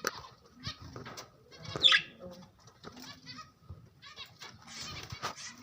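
Budgerigars chirping and chattering in short, quick calls, with one louder, harsher call just under two seconds in.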